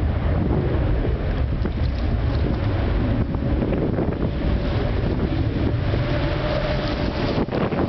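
Wind buffeting the microphone over a low rumble, with a faint steady tone from the CFM56 jet engines of a departing Boeing 737-800.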